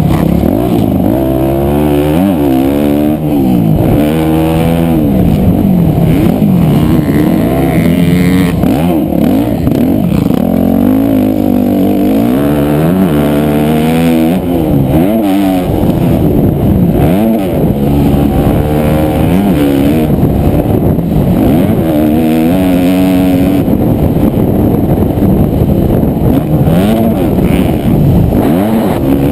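Loud motocross dirt bike engine revving, its pitch climbing and dropping again and again every second or two as the throttle is opened, the gears shifted and the throttle closed.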